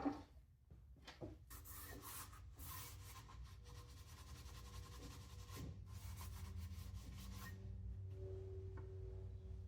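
A sharp click, then a run of rubbing and scraping strokes that stop about three-quarters of the way through, with soft background music of steady held tones coming up underneath.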